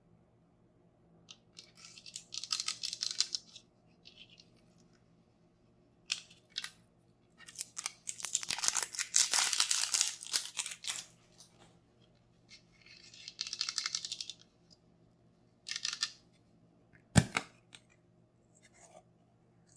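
Toy packaging being torn and crinkled by hand in several separate bursts, the longest and loudest in the middle, followed by one sharp knock near the end.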